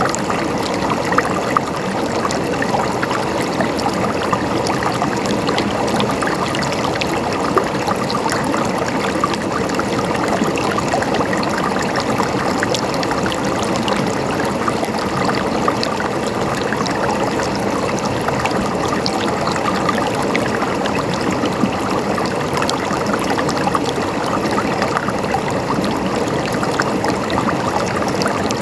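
Water flowing and gurgling steadily over rocks, a continuous rushing wash with many small splashes and drips through it.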